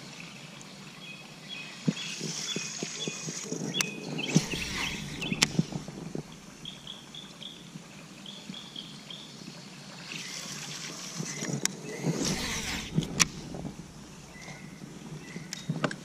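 Quiet lakeside ambience: a bird chirping in short quick runs, twice, with occasional rustling and sharp knocks from handling in a boat.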